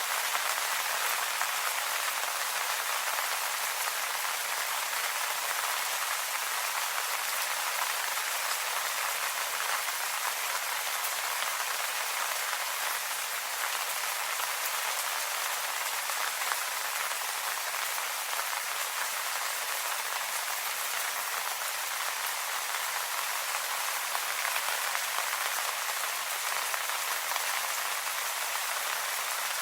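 Steady rain falling on leaves: an even hiss with many small drop patters, unchanging throughout.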